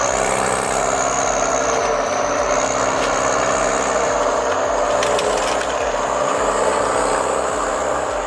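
A heavy logging truck's diesel engine running steadily under load, with a high whine over it that rises and falls slightly in pitch.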